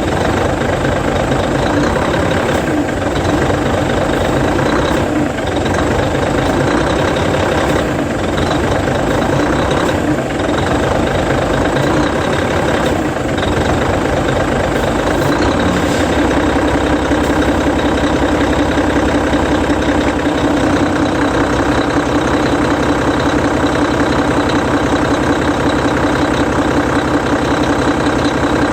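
Hino E13C 12.9-litre inline-six diesel of a Hino Selega tour bus idling steadily while its FF air-assisted gearshift is tested. Short breaks in the engine sound come every two or three seconds over the first half, and it runs evenly after that.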